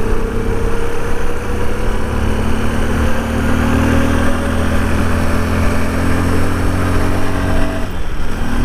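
Motorcycle engine running at speed, its note rising slowly as the bike gathers speed, with wind noise across the microphone; near the end the engine note breaks off briefly, then carries on.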